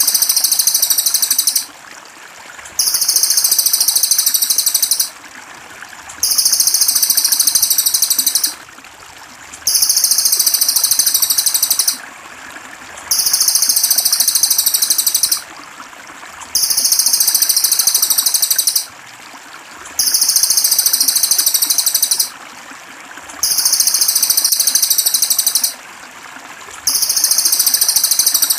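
A high-pitched songbird phrase played on a loop as a masteran tutor recording, each phrase about two seconds long and repeated about every three seconds, over a steady trickle of water.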